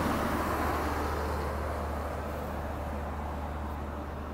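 Stainless-steel passenger carriages of the Great Southern train rolling along the platform and drawing away, their wheel and rail noise fading steadily.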